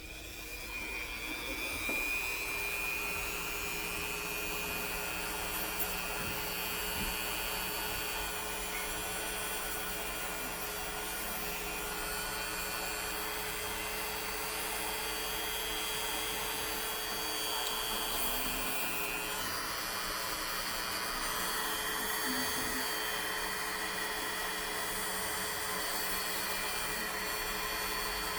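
Small high-speed rotary grinding tool, the kind used to file a parrot's nails, starting up and running steadily with a whine. Its upper pitch shifts slightly about two-thirds of the way through, as the load on the bit changes.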